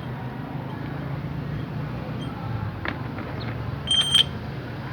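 Steel differential parts clinking against each other in a quick cluster about four seconds in, with a short high ringing note, over a low steady hum.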